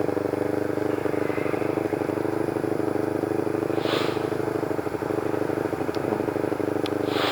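Motorcycle engine running at a steady pitch while riding, with short hissing swells about four seconds in and again near the end.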